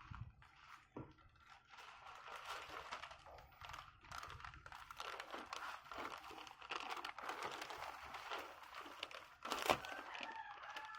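Plastic packaging crinkling and rustling as it is handled, with one louder knock about nine and a half seconds in.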